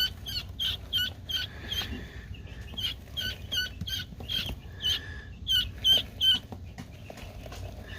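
Guinea fowl keets peeping: a steady run of short, high chirps, several a second, a few of them louder about six seconds in.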